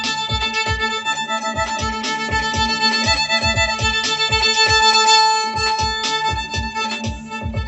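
Music: a hand drum beaten steadily about four times a second under a sustained drone, with a bowed-sounding melody line shifting above it.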